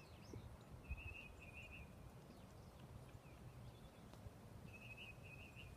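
Near silence with a faint low rumble, over which a bird gives two short phrases of quick high notes about four seconds apart. One soft knock comes about a second in.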